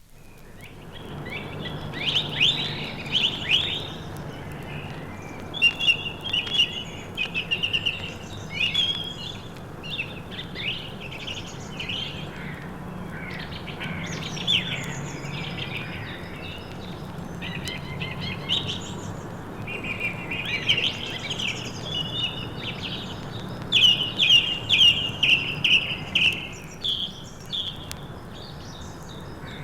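April dawn chorus of great tit, carrion crow, song thrush and blackbird: overlapping songs and calls in repeated phrases, over a steady low hum.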